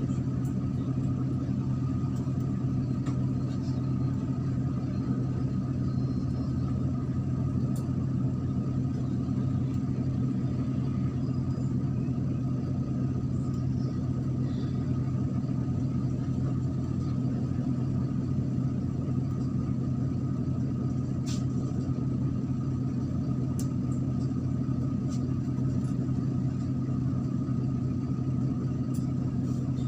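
MAZ-103 city bus under way, heard from inside the cabin: a steady diesel engine drone and road rumble at an even level, with a few faint clicks.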